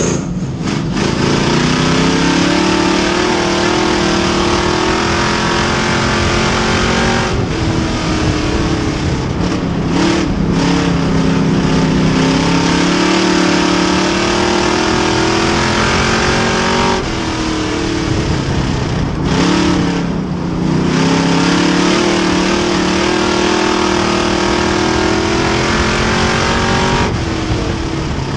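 A race car's engine running hard on track. The pitch drops briefly as the driver lifts for each turn and climbs again back on the throttle, several times over.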